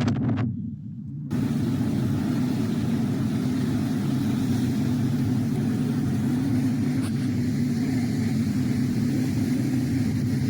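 A motor vehicle's engine running steadily with a low hum, briefly dulled for under a second near the start.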